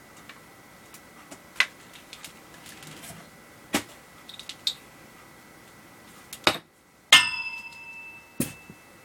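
Handling noises from setting up a fog machine and its wired remote: a series of separate clicks and knocks, with a sharp clank about seven seconds in that rings briefly, then one more knock. A faint steady high whine sits underneath.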